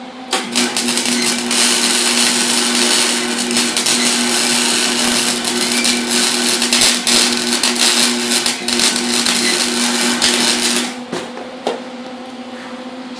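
Electric arc welder laying a bead on a turbo flange: a steady crackling, sputtering arc over the welder's hum, which stops about eleven seconds in.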